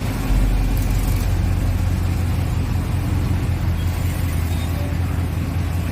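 Squarebody Chevy pickup's engine running at a steady idle, an even low rumble.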